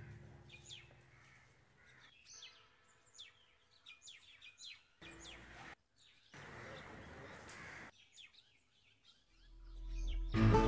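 Faint birds chirping: many short, high calls scattered over several seconds. Two stretches of soft hiss sit in the middle, and music swells in near the end.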